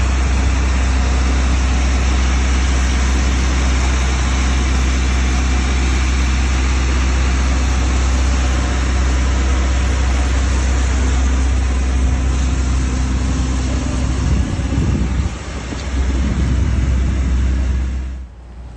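A motor vehicle's engine running at a steady speed with a deep, even hum. The sound wavers briefly about fifteen seconds in and drops away abruptly near the end.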